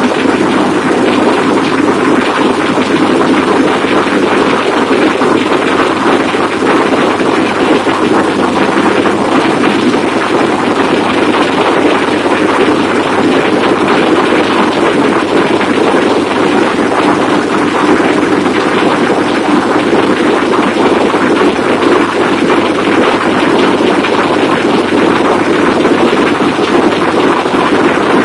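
Loud, steady din of a ferry's engine room: large marine diesel engines running at constant speed, a dense unchanging noise with a low steady hum beneath it.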